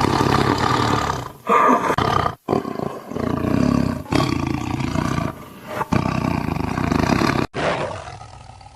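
Tiger roaring: a string of loud roars joined with sudden breaks between them, tailing off near the end.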